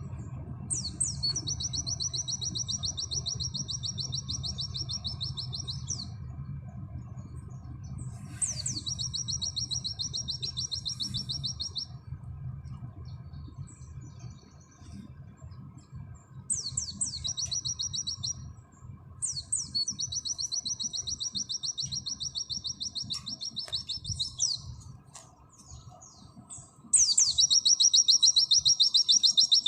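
White-eye (pleci) singing its 'nembak' song: long, high, rapid trills, each opening with a few sweeping notes and running two to five seconds, five phrases with short pauses between, the last one the loudest.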